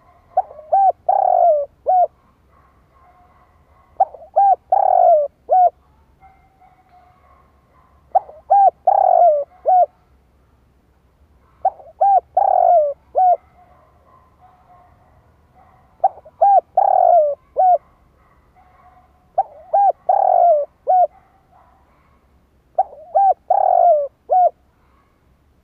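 Spotted dove cooing, a call used as a lure to rouse wild doves: the same short phrase of about four notes repeated about every four seconds, seven times.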